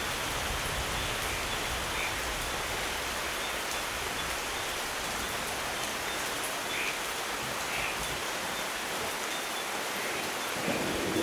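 Steady rainfall, an even dense hiss, with a few faint short chirps now and then. A low rumble of thunder begins to build near the end.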